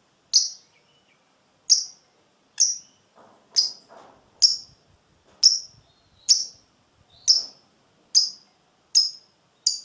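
Lovebird giving short, high-pitched chirps, one about every second, about eleven in a row.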